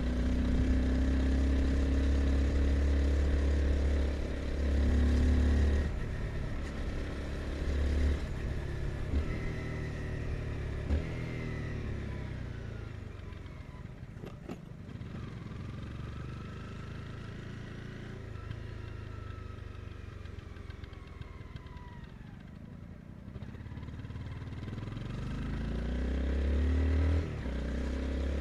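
Honda CBR 250R's single-cylinder engine pulling under throttle, then easing off about eight seconds in, its note falling slowly and quieter for a long stretch as the bike slows. Near the end it picks up again, growing louder as the rider gets back on the throttle.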